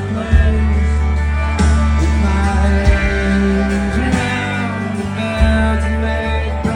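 Country band playing live: singing over guitar, bass and drums.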